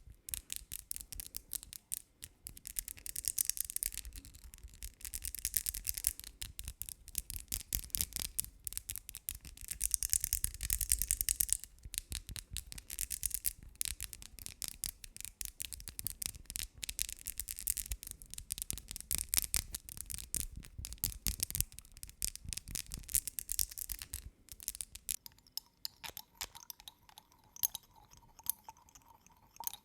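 Rapid close-up scratching or brushing sounds: a dense run of tiny scrapes, bright and crisp, going on almost without pause and thinning out about 25 seconds in.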